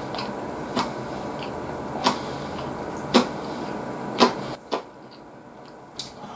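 A person chewing food with a wet mouth click about once a second, over a steady hiss that cuts off abruptly near the end.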